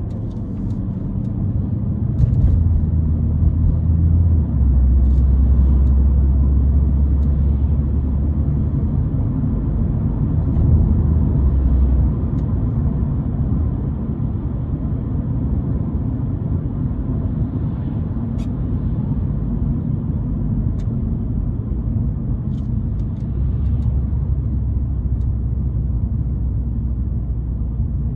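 BMW M140i's 3.0-litre B58 turbocharged straight-six heard from inside the cabin on the move, a deep drone with road noise. It swells about two seconds in and stays loud for about ten seconds, eases, then builds again near the end.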